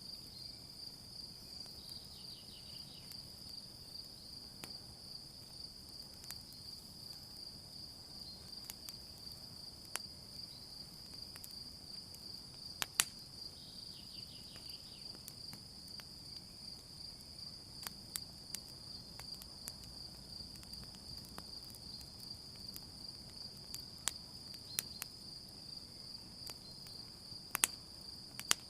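Night insects trilling in one continuous high steady tone, with scattered sharp crackles and pops from a wood campfire, the loudest about midway and again near the end.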